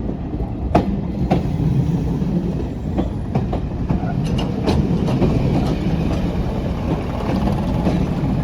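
BR Class 105 Craven diesel multiple unit running past with a steady low rumble, its wheels clicking over the rail joints several times.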